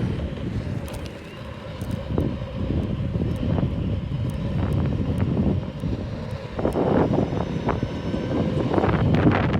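Wind buffeting the microphone with a steady low rumble while riding an electric unicycle at speed, with a few scattered clicks.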